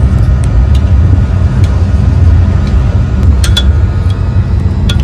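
Steady low rumble of a moving passenger train heard inside the coach, with a few faint ticks and rattles.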